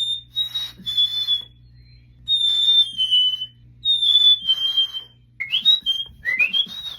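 A person whistling an imitation of a chickadee's two-note 'fee-bee' song three times, each a clear higher note stepping down to a lower one. These are followed by a few quick rising whistled slurs near the end.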